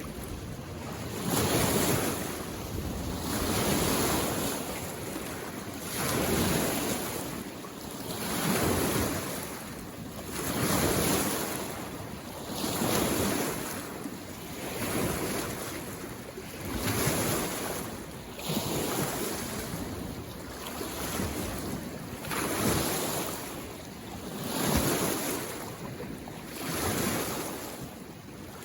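Small waves on a mountain lake lapping and washing onto the shore in a steady rhythm, one swell about every two seconds.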